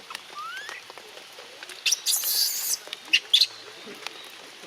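High-pitched animal calls: a short rising squeak about half a second in, then a loud, harsh screech lasting almost a second, followed by a couple of short sharp squeaks.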